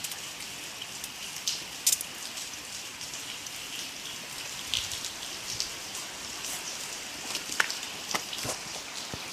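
Hail falling heavily: a steady hiss with scattered sharp ticks of single hailstones striking, two louder cracks about two seconds in and near the end.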